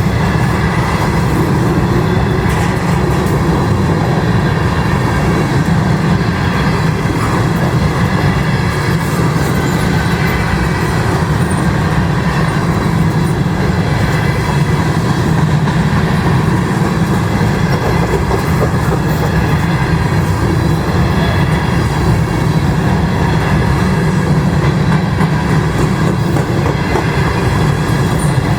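Covered hopper cars of a grain train rolling past at a steady speed: a continuous rumble of steel wheels on the rail, even throughout.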